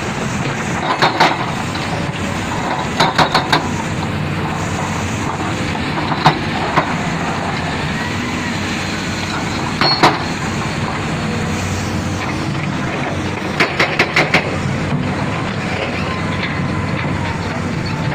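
Heavy construction machinery running steadily under load, with sharp knocks every few seconds, some in quick runs of three or four.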